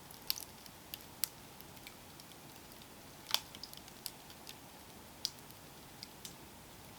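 Campfire crackling: scattered sharp pops and snaps from the burning wood, the loudest a little past three seconds in, over a faint steady hiss.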